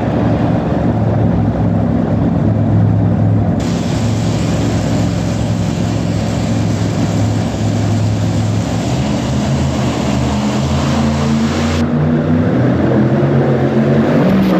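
Supercharged tractor-pull engine running hard under load during a pull, a loud, sustained engine note whose pitch shifts about nine seconds in.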